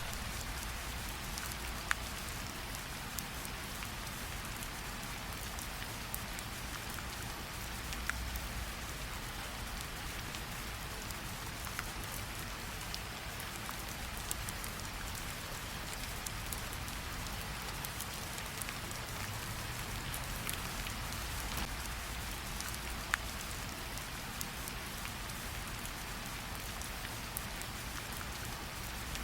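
Steady rainfall: an even, continuous hiss of rain, with a few louder single drops standing out now and then.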